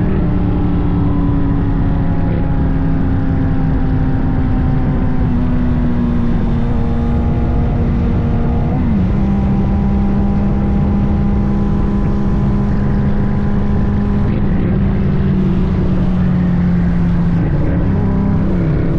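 Honda CBR sportbike engine running at steady road speed, its pitch easing down slowly, with a gear change about nine seconds in and another near the end, over wind rushing on the microphone.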